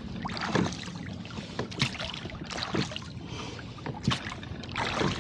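A rowing boat under way through a steep chop: irregular splashes and slaps of water against the hull and oars, about one every second.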